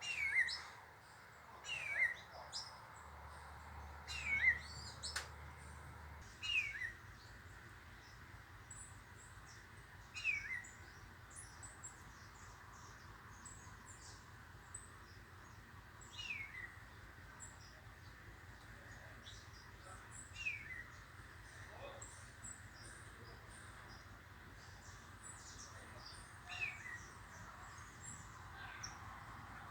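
Backyard birds calling: one bird repeats a short, clear whistle that slides downward, about eight times at uneven gaps and most often in the first few seconds, over faint, quick high chirps from other birds.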